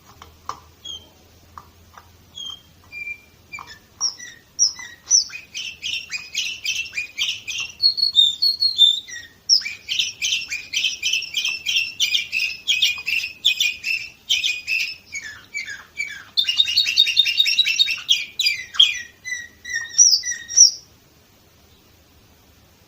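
Canary singing a long song of rapid chirps and rolling trills, with a dense, fast trill near the end, then stopping abruptly about 21 seconds in.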